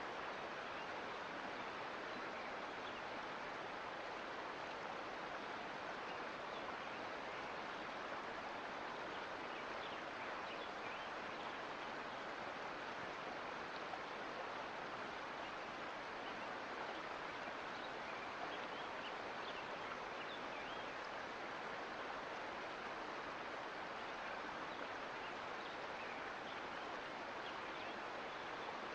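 Sierra Nevada mountain creek flowing, a steady even rush of water with small splashes throughout.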